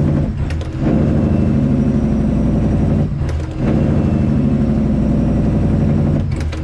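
Straight-piped Detroit Diesel Series 60 inline-six in a Freightliner Classic XL, loud and pulling under load. The engine note drops briefly three times, about half a second in, a little after three seconds and at the end, as the throttle lifts for gear changes on the manual transmission.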